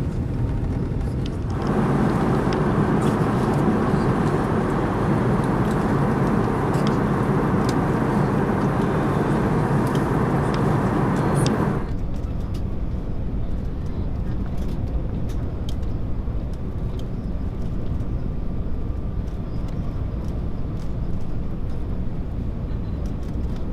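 Airliner cabin noise: a steady low rumble, with a louder, even rushing noise that starts abruptly about a second and a half in and cuts off suddenly near the middle.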